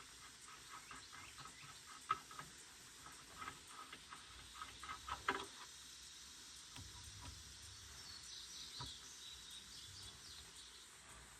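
Faint series of irregular clicks and light knocks, with two sharper knocks about two seconds and five seconds in; a faint cluster of high ticks or chirps follows later on.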